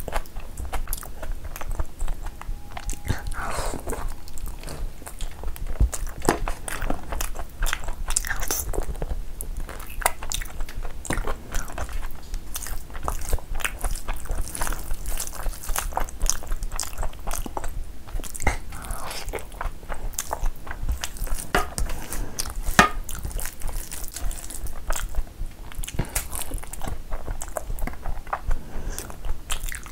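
Close-miked chewing and wet mouth sounds of a person eating rice and mutton curry by hand: steady smacking and squelching with frequent small clicks, and now and then a crunchy bite.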